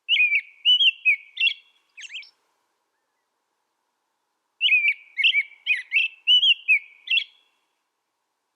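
A small songbird singing two short phrases of quick whistled notes, the first in the opening two seconds and a second, longer one starting about four and a half seconds in.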